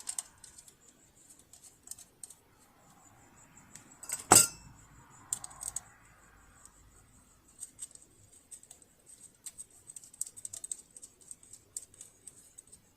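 Small metal clicks and clinks of tools and machine parts being handled, with one sharp knock about four seconds in and a run of light ticks through the second half.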